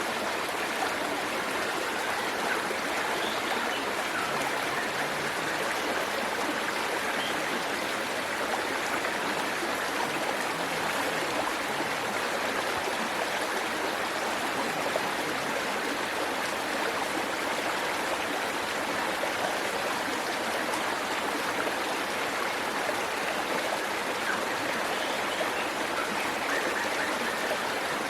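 Steady rush of a waterfall and its stream running over rocks, an even splashing with no change.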